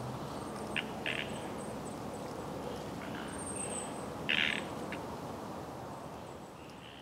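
Small birds calling over a steady outdoor background noise: short chirps about a second in and a louder one a little past four seconds, with thin, very high twitters in between.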